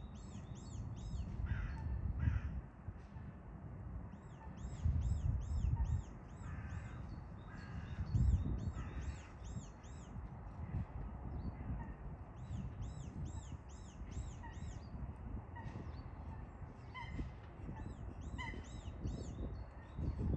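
Bird calls: short arching high notes repeated in quick series of four or five, again and again, with scattered single short calls, over an uneven low rumble.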